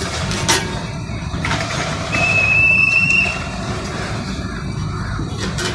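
Train 18 trainset rolling slowly past close by, a steady low rumble. There is a sharp click about half a second in, and a thin high whistling squeal lasting about a second near the middle.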